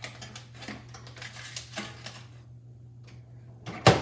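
A run of rattling clicks for about two and a half seconds as the pasta goes into the microwave, then the microwave door bangs shut near the end. A steady low hum runs underneath.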